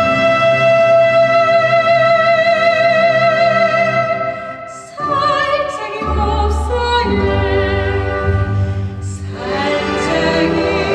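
Operatic-style singing with strong vibrato over instrumental accompaniment in a live performance. A long held note fades out about four to five seconds in, then the singing picks up again over a deeper accompaniment.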